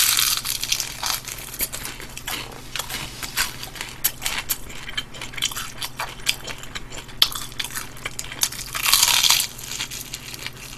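Crispy plain fried chicken being bitten and chewed close to a microphone: a loud crunchy bite at the start and another about nine seconds in, with steady crackling chews in between.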